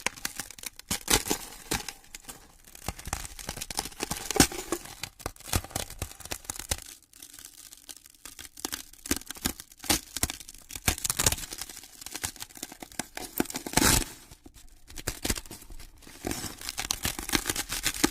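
Ice cracking: a continuous run of small crackles and sharp snaps, with louder cracks about four seconds in and again near fourteen seconds.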